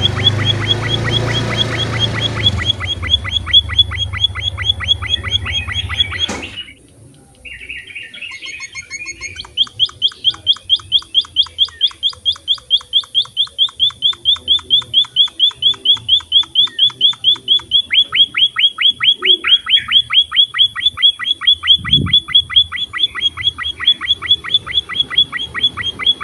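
Small finch (emprit) chirping in long, fast runs of evenly repeated high notes, about four a second. The run breaks off with a click about six seconds in, and a new, louder run starts a second or so later.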